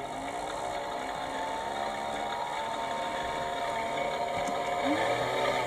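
Theo Klein Miele Novotronic toy washing machine's small battery-powered electric motor running, turning the drum through its belts: a steady whirring hum of several tones, with a few tones wobbling up and down near the end.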